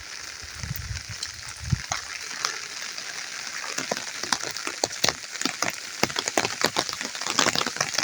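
Rain falling: a steady hiss with many sharp individual drop strikes that grow denser and louder toward the end as the rain picks up. A low rumble sounds about half a second to two seconds in.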